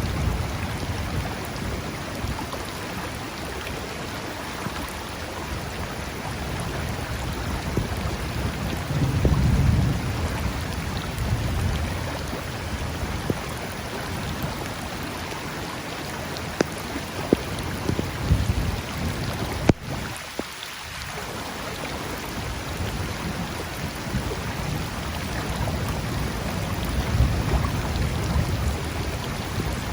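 Steady thunderstorm rain falling by a flowing river, with scattered drops ticking close by. Low thunder rumbles swell about a third of the way in and again near the end.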